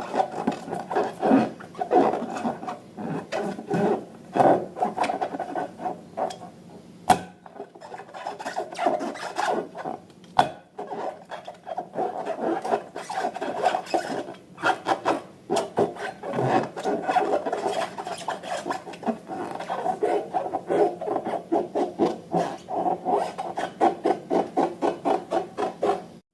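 Slime being worked by hand: a dense, continuous run of small crackles and clicks, with a couple of sharper snaps about seven and ten seconds in.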